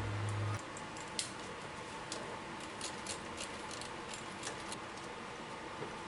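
Scattered light clicks and clinks of hand tools and metal parts, irregular and not in a steady rhythm, over a steady background hiss. A low hum cuts off about half a second in.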